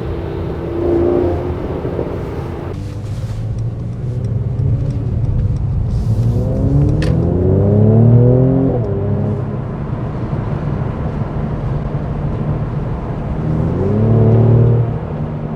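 Mercedes-AMG C43's twin-turbo V6 engine running under way, rising in pitch as it accelerates from about six seconds in, dropping back sharply as it shifts up, and rising again briefly near the end.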